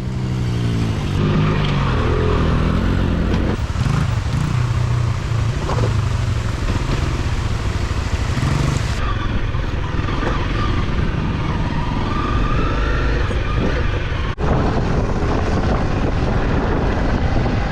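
Off-road motorcycle engine running under throttle, its pitch rising and falling as the revs change, with a brief cut-out about 14 seconds in.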